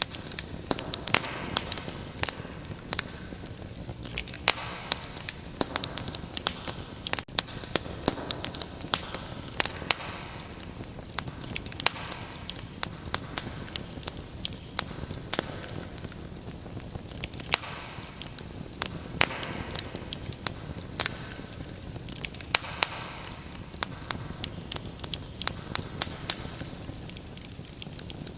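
Wood fire crackling in a fireplace: dense, irregular sharp pops and snaps over a soft hiss that swells and fades every couple of seconds.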